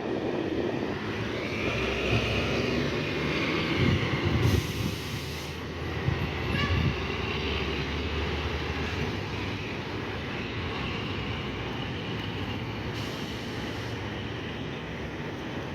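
Loaded heavy truck's diesel engine running as it crosses the bridge: a steady rumble with a wavering higher whine over it.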